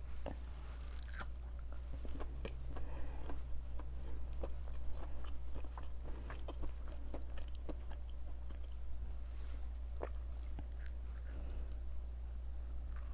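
Close-miked chewing of crispy breaded plant-based fried chicken nuggets: irregular crunches and small crackles with each bite, over a steady low hum.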